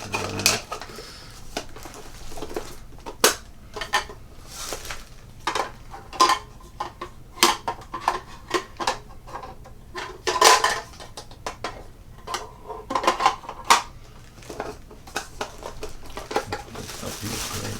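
Irregular clinks, clatters and knocks of hard espresso grinder parts and accessories being handled and set down.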